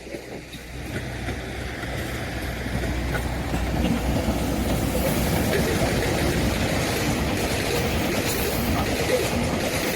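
Train approaching and passing on the rails, growing louder over the first few seconds, then a steady rumble of wheels with rhythmic clickety-clack over the rail joints.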